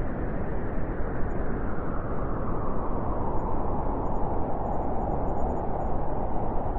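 Blizzard wind blowing hard and steadily, a gust building and strengthening over the last few seconds.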